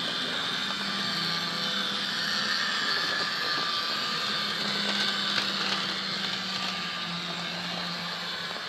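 Heljan model diesel locomotive running along the track: a steady whirr of its small electric motor and gears, with a hum underneath and a high whine.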